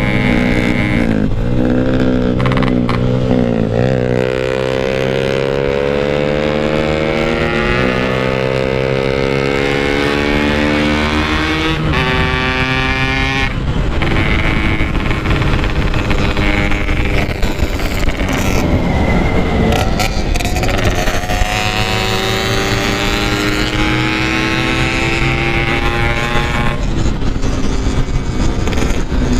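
Yamaha RX-King 135cc two-stroke single-cylinder motorcycle engine running hard while ridden: its pitch climbs as it accelerates, then drops sharply at each gear change, several times over.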